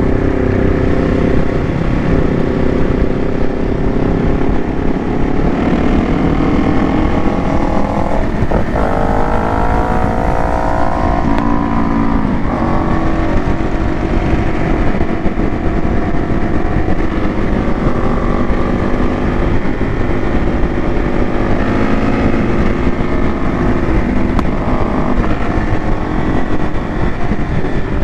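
Motorcycle running at road speed under a dense low rumble. Between about 8 and 12 seconds in, an engine note rises several times as the revs climb.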